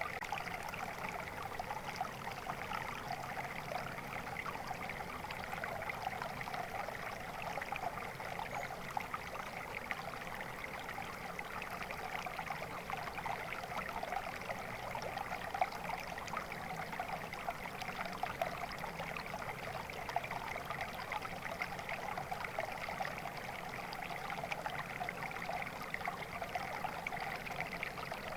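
Flowing water: a stream babbling and trickling steadily, with a dense, even splashing.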